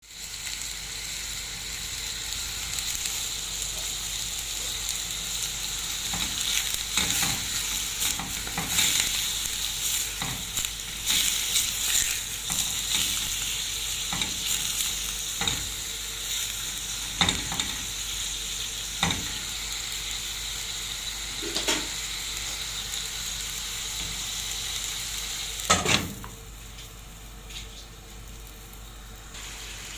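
Food frying and sizzling in a pan, with a utensil stirring and scraping against it in repeated short clicks. The sizzle drops sharply about four seconds before the end.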